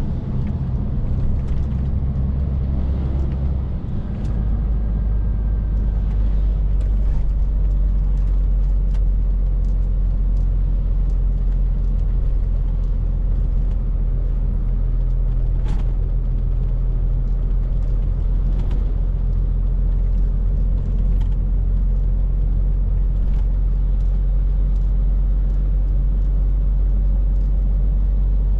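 Scania R450 lorry's 13-litre six-cylinder diesel engine running at a steady cruise with road rumble, a deep steady drone. About four seconds in its low note drops a little and grows slightly louder.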